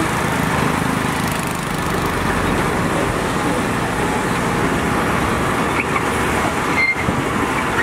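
Heavy vehicle engines running steadily, with a brief dip about seven seconds in.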